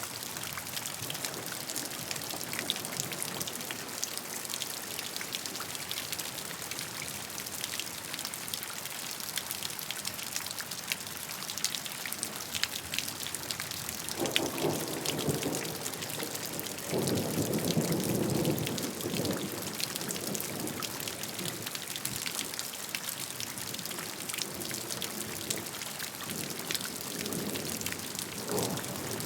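Rain falling steadily, with many separate raindrops ticking against a hiss of rainfall. About halfway through, a low rumble rises twice and fades, the second time louder.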